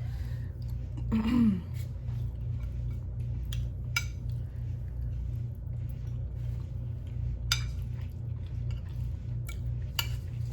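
An eating utensil clicking and scraping against a dish of food a few times, over a steady low hum, with a short murmur from a person about a second in.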